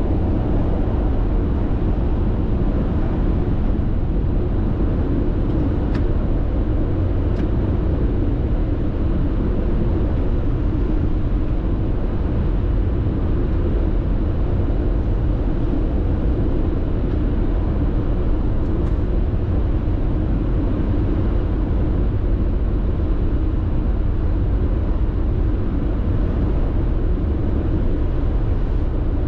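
Steady road and tyre noise of a car cruising at constant expressway speed, heard from inside the cabin as a low, even rumble, with a couple of faint ticks a few seconds in.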